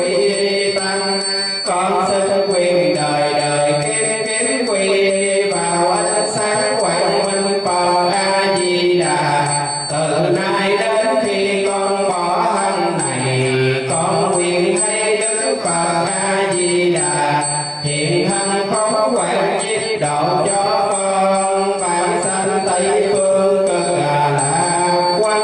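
Vietnamese Buddhist liturgical chanting: a voice intoning a slow melodic chant in long held notes that glide gently up and down without pause.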